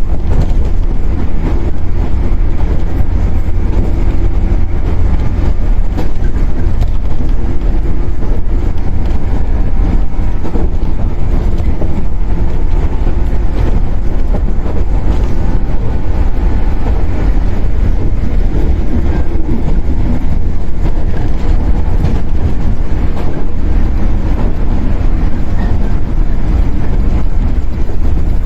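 Shinano Railway 115 series electric train running at speed, heard from inside the motor car KuMoHa 115-1013: a steady, loud rumble of the wheels and running gear on the track.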